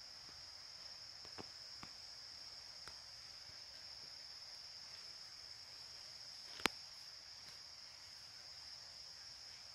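Faint steady, high-pitched chorus of insects such as crickets, with a few light clicks early on and one sharp click about two-thirds of the way through.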